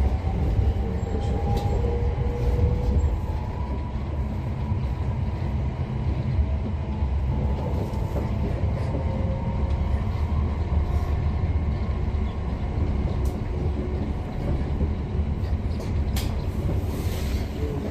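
Class 710 electric multiple unit running on the line, heard from inside the carriage: a steady low rumble with a faint whine from the electric traction motors and occasional clicks from the wheels over the track.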